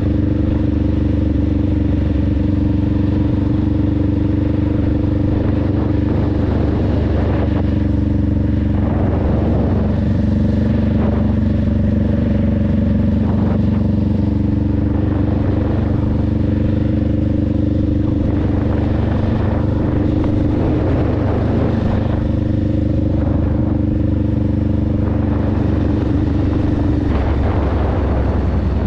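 Honda Rebel 500's parallel-twin engine running steadily while under way, with a few brief rushes of noise over it. The engine note changes near the end.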